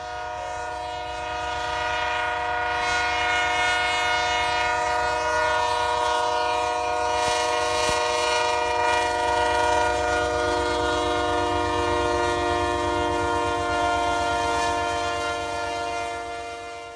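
Train air horn sounding one long unbroken blast, a steady chord of several notes, over a low rumble from the moving train.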